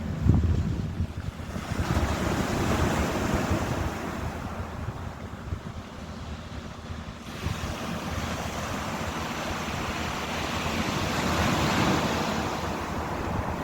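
Ocean surf: waves breaking and washing in, swelling about two seconds in, easing off, then building again from about halfway, with low wind rumble on the microphone.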